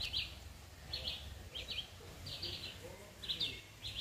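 A songbird calling repeatedly: short clusters of two or three quick, high chirps, repeated roughly every second, over a low steady rumble.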